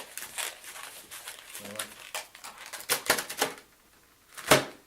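Latex modelling balloon being twisted and handled: quick rubbery rubbing and crinkling clicks, with one louder, sharper sound near the end.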